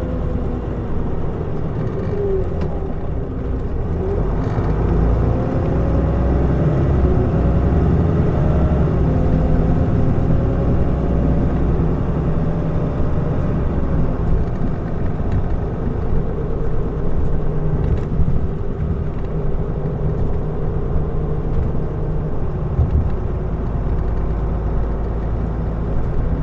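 Mitsubishi Fuso Aerostar city bus heard from inside while under way, its six-cylinder turbodiesel engine drone rising in pitch as the bus picks up speed about four seconds in, then running steadily with road noise.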